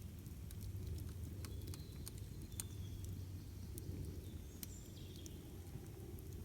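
Wood campfire crackling, with irregular sharp pops and snaps over a steady low rush of the burning fire. A few brief, faint bird chirps come through now and then.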